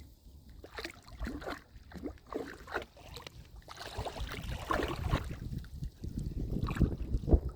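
Irregular splashing and sloshing of shallow water as a dog wades after a crab, with a low rumble underneath.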